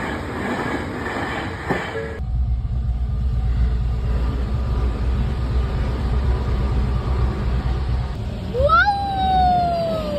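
Train passing at a level crossing, a heavy low rumble. Near the end a horn sounds once, rising sharply and then sliding slowly down in pitch.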